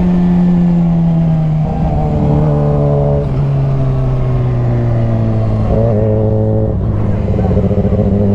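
Motorcycle engine running while riding. Its pitch eases down and steps lower about a second and a half in, wavers around six seconds in, then holds steady.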